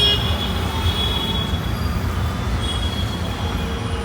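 Train running on the rails with a steady low rumble and a thin high whine from the wheels that comes and goes.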